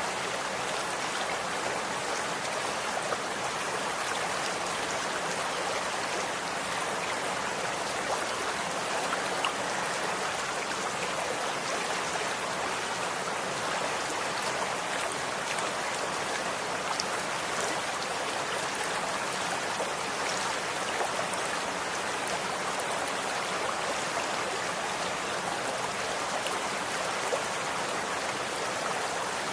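Running water of a stream, a steady even rush with small splashes and drips scattered through it.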